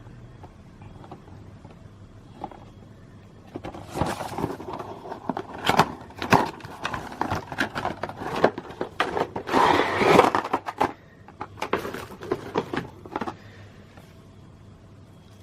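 Handling noise: a long irregular run of clicks, knocks and rustling scrapes, starting a few seconds in and stopping a couple of seconds before the end, loudest near the middle.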